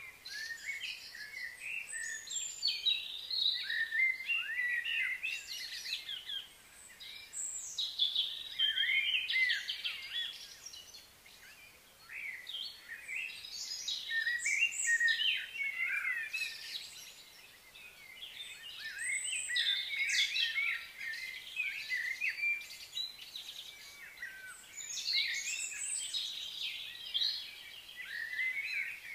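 Birds chirping and singing: many quick, overlapping high calls that come in bunches every few seconds.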